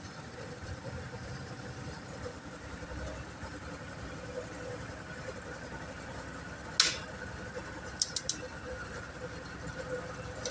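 Fahr M66 combine harvester's engine running steadily at low revs. There is one sharp click about two-thirds of the way in and three quick clicks a second later.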